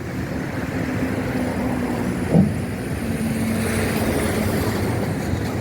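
Mercedes-Benz 2213 truck's diesel engine running with a steady low rumble and a steady hum, and one brief louder sound about two and a half seconds in.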